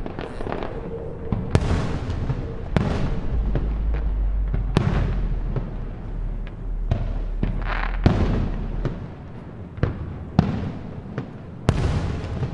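Aerial fireworks shells bursting one after another, about one sharp bang every second or so, each followed by a long rolling echo off the hills.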